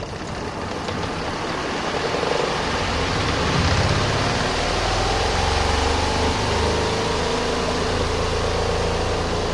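RV washing machine starting its spin cycle: a click, then the spin motor builds to speed over a couple of seconds and runs with a steady hum and rushing noise, a faint whine rising slowly as the drum speeds up.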